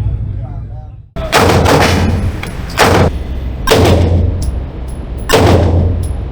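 About a second in, a sudden cut brings four loud bangs, each with a short ringing tail, over a steady low rumble. It ends abruptly.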